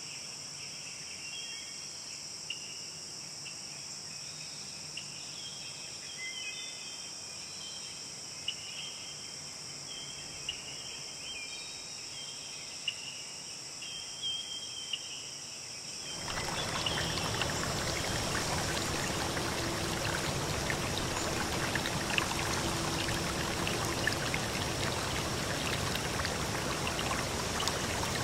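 Forest insects droning steadily at a high pitch, with short chirps over them. About sixteen seconds in, the sound cuts sharply to a louder, steady rush of a forest stream.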